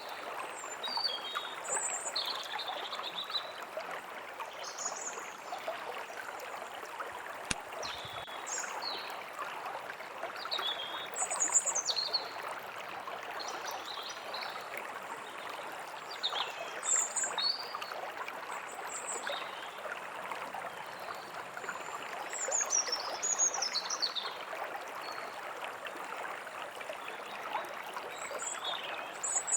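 Small stream babbling steadily, with songbirds calling over it in short high chirps every second or two, some of them falling in pitch.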